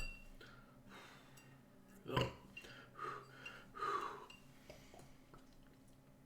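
A man breathing hard and burping after chugging beers, with a louder breath or burp about two seconds in and smaller ones after it.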